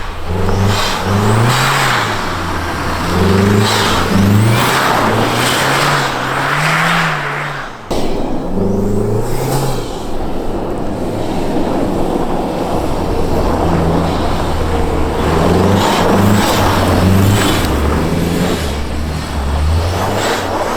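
Turbocharged car engine revved up and down again and again while drifting, with rushing hiss from the turbo over the engine note. The sound breaks off abruptly about eight seconds in, then the engine runs at lower revs with short throttle blips and more rushes of hiss.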